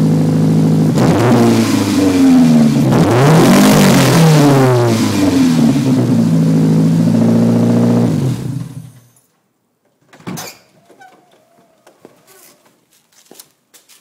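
1994 Ford Escort LX's 1.9-litre four-cylinder exhaust, through an aftermarket 3aracing muffler fitted right after the catalytic converter: loud idle with several quick revs in the first half. It then settles back to idle and cuts off about nine seconds in. A few faint knocks follow.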